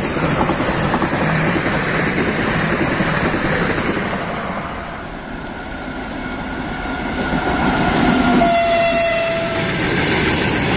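Electric trains passing close on the line: first a multiple-unit train running by, then an electric freight locomotive with its wagons approaching. The locomotive sounds one long horn blast of about two seconds, near the end.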